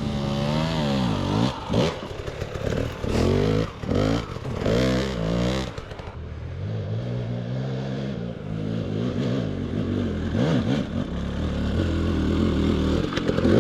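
Two-stroke dirt bike engine blipping the throttle in short revs while picking through rocks, with clatter and scraping over the rocky ground. About halfway through, the engine settles into a steadier running note that slowly climbs.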